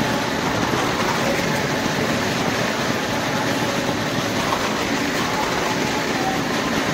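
Car engines running steadily as two cars circle the vertical wooden wall of a well-of-death drum.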